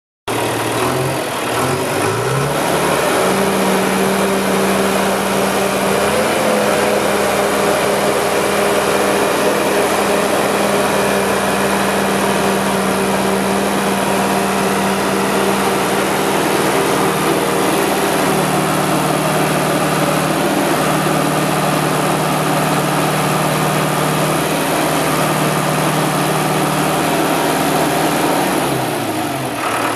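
Diesel engine of a 1998 John Deere 450G LGP crawler dozer running. It speeds up within the first couple of seconds, holds steady, and drops briefly near the end before picking up again.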